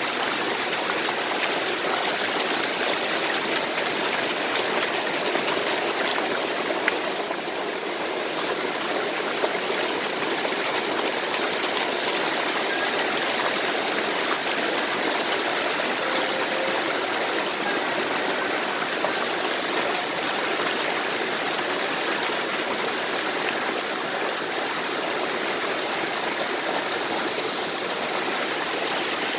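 Stream or small waterfall: water flowing and splashing in a steady, even rush.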